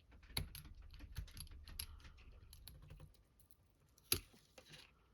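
Quick small clicks and taps of a hot knife blade working plastic out of the center of a model part, with a sharper click about half a second in and another near the end.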